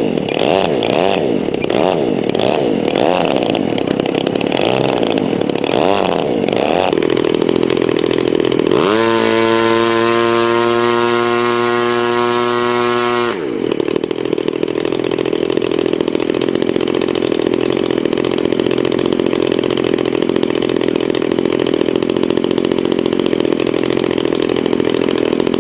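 Radio-controlled model airplane's motor and propeller buzzing, the pitch wavering up and down again and again. About nine seconds in, a steady motor note rises in quickly, holds for about four seconds, then drops away sharply, leaving a steady even buzz.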